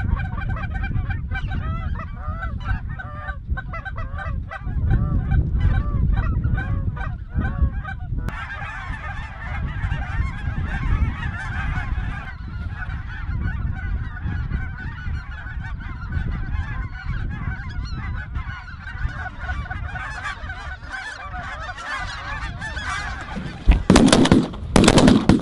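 A flock of geese calling, many overlapping honks and yelps at once. Near the end a few loud bangs stand out above the calling.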